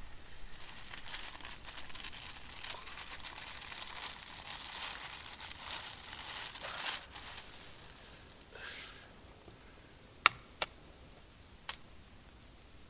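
Crinkling, rustling handling noise for about seven seconds, then a softer swish, then three sharp clicks or snaps near the end.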